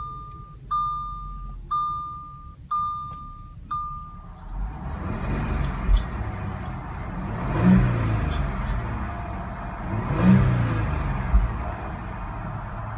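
A dashboard chime sounds about once a second, four or five times, then the Audi SQ5's supercharged 3.0-litre TFSI V6 starts about four and a half seconds in and settles to idle, with two brief revs in the second half.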